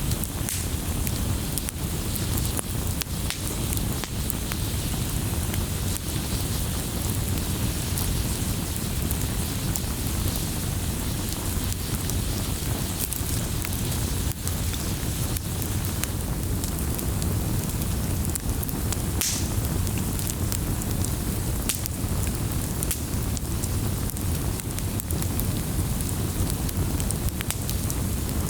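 Wood fire in a fireplace crackling steadily, scattered pops and snaps over a low rumble of the flames, with one sharper pop about two-thirds of the way through.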